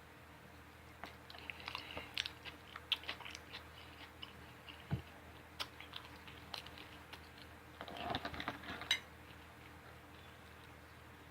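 A person chewing food close to the microphone: soft, wet mouth clicks and smacks in scattered runs, with a soft thump about five seconds in and a busier stretch of chewing near eight seconds.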